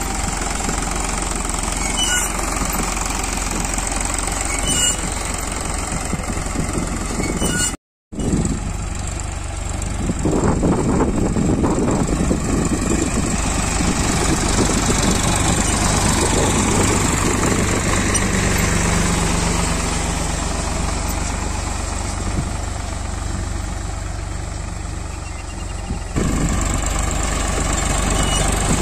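Tractor diesel engine running steadily under load while pulling a groundnut seed drill, with a brief dropout about a quarter of the way in where the footage is cut.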